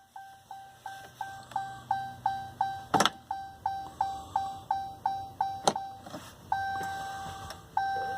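A pickup's dashboard warning chime beeping about three times a second, then changing to longer held tones near the end, as the key is on before a cold start. Two sharp clicks cut in, about three seconds and five and a half seconds in.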